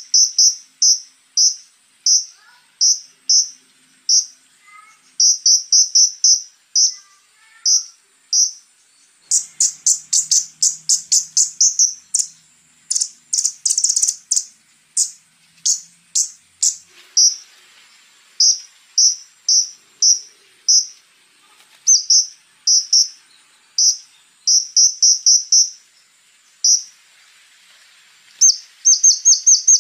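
Konin (flowerpecker) singing: short high-pitched notes in quick runs, with a louder, faster burst of notes about ten to sixteen seconds in. A faint steady high-pitched buzz, like a cricket, runs beneath.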